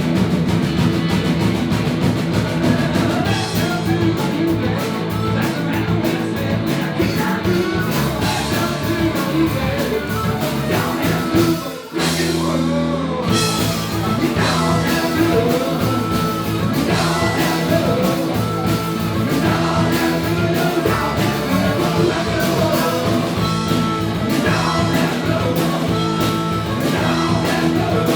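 Live rock band playing with singing, electric guitars, bass and drums. About twelve seconds in, the drums drop out briefly under a held chord, then the full band comes back in.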